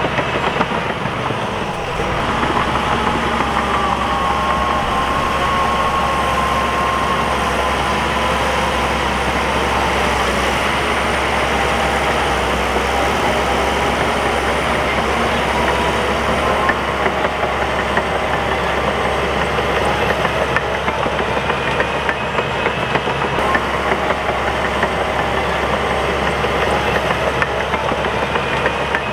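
Crawler bulldozer's diesel engine running steadily at work, with a faint wavering whine over it. The sound dips briefly about two seconds in.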